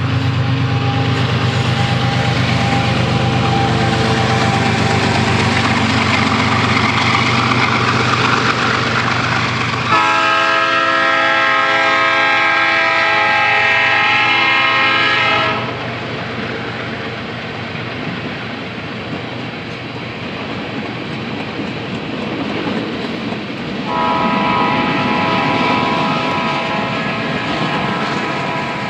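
Diesel freight train passing: a steady low diesel locomotive hum for the first ten seconds, then tank cars rolling by with wheel clatter. The locomotive's multi-note air horn sounds two long blasts, one about ten seconds in lasting some five seconds, and another starting near the end.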